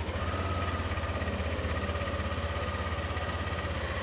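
Yamaha NMAX scooter's single-cylinder engine starting up on the electric starter and settling into a steady idle.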